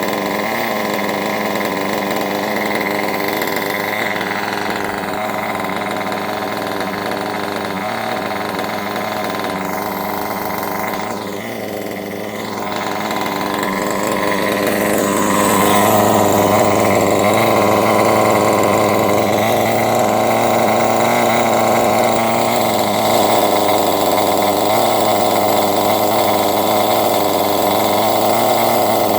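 Kyosho Neo 4.0 nitro buggy's small two-stroke glow engine running steadily. It dips briefly about 11 seconds in, then runs louder from about 16 seconds on.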